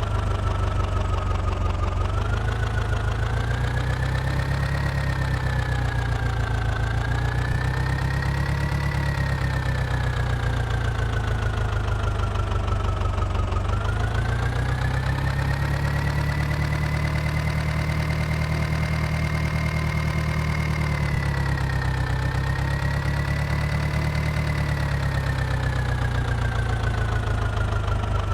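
Mahindra tractor's diesel engine running steadily, its speed drifting slowly up and down every few seconds.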